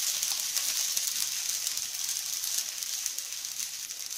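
Ghee sizzling on an aloo paratha frying on a hot tawa: a steady hiss with fine crackling pops, easing slightly toward the end.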